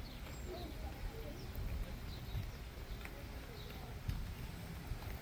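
Faint, short high animal chirps repeating every second or so, over a steady low rumble and some faint distant voices.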